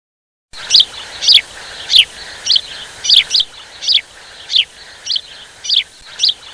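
A bird calling over and over: a steady series of short, high, falling chirps, about one and a half a second, starting about half a second in.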